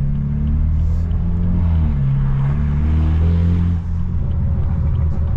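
Stage 2+ tuned BMW 328i's turbocharged four-cylinder engine and exhaust under way, rising in pitch as it pulls. The driver then lifts off and the exhaust gives about a second of crackling pops before it settles back to a steady drone.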